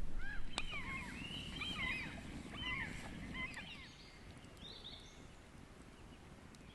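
A flock of geese honking, the calls thinning out and fading away over the first three or four seconds. A few sharp crackles from a campfire come through, the clearest about half a second in.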